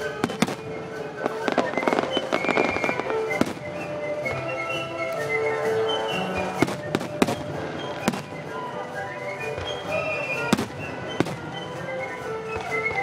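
Aerial firework shells bursting in a string of sharp bangs, with a dense spell of crackling about two seconds in, over a symphony orchestra playing sustained notes.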